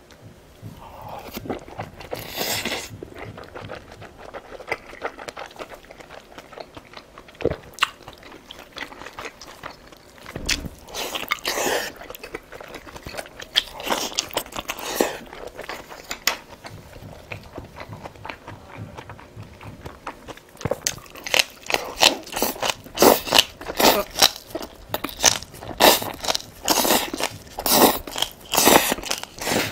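Close-miked eating sounds: soft chewing of boiled dumplings, then from about two-thirds of the way through, loud rapid crunching as green onion kimchi (pa-kimchi) is bitten and chewed.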